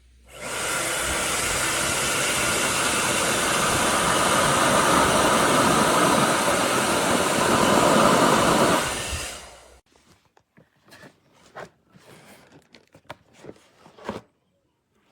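Handheld hair dryer switched on, blowing with a steady rushing noise that grows slightly louder, then switched off about nine seconds in and spinning down. Several faint clicks and knocks of the dryer being handled follow.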